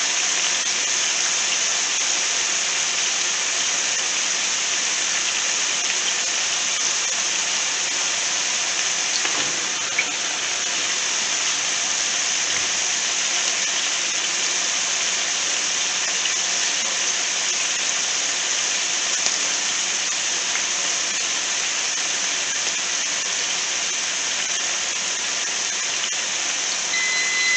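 Chunks of raw chicken sizzling in hot oil in a skillet: a steady, even frying hiss.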